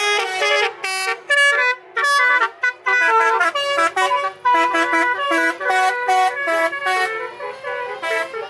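Basuri, an Indonesian truck's musical multi-tone air horn, playing a fast melody of short notes with a few brief breaks.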